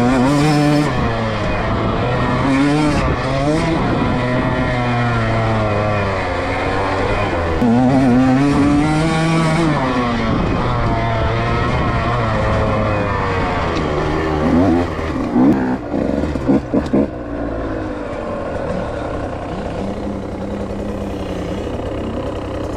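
Dirt bike engine being ridden hard, its pitch rising and falling again and again with the throttle and gear changes. A few sharp knocks come about two-thirds of the way in.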